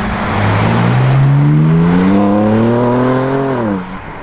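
Porsche 991 GT3 4.0's naturally aspirated flat-six, on a straight-piped iPE exhaust, accelerating hard with its pitch climbing steadily for about three seconds. Near the end the pitch drops sharply and the sound cuts off.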